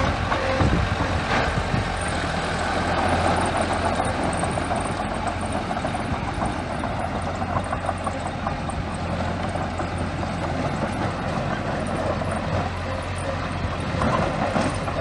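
Small crawler bulldozer's diesel engine running steadily, with a continuous rattling clatter over the engine note.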